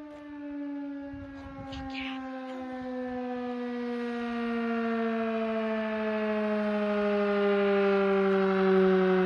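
Sterling Model M 16-port single-head siren sounding the attack signal: one long, slow downward glide in pitch that grows steadily louder.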